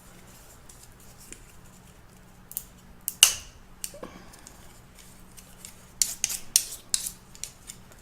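Close-up crunching of crispy fried chicken skin being bitten and chewed: sharp, irregular crackles, loudest about three seconds in and bunched again around six to seven seconds.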